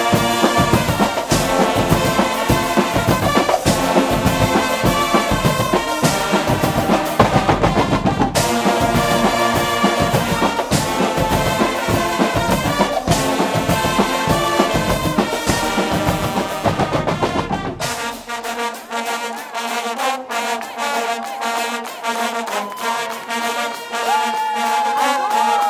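Guggenmusik band playing loud brass (trumpets, trombones) over a driving bass-drum beat. About 18 seconds in, the deep bass and drums drop away, leaving thinner, higher brass lines over light, ticking percussion.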